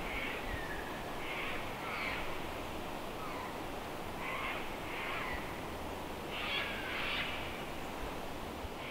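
Forest birds calling: short calls come in clusters every second or so, some sliding down in pitch, over a faint low background hiss.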